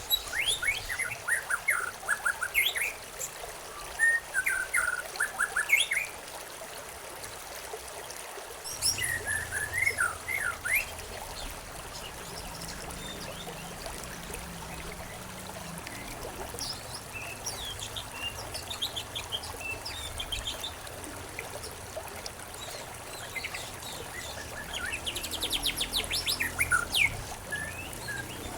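Small birds chirping in quick bursts of short sweeping notes, over the steady trickle of running water. The chirping comes in clusters near the start, about ten seconds in, and again near the end, with only the water between.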